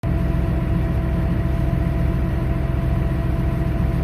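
Case 5240 tractor's diesel engine running steadily.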